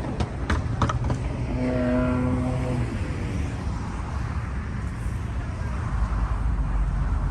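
Steady low rumble of car engines running among the parked and passing cars, heavier near the end, with a few light clicks about a second in.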